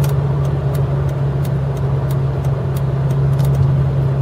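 2008 Dodge Charger R/T's 5.7-litre Hemi V8 with glasspack mufflers, cruising at steady highway speed, heard from inside the cabin: a steady low exhaust drone over road noise.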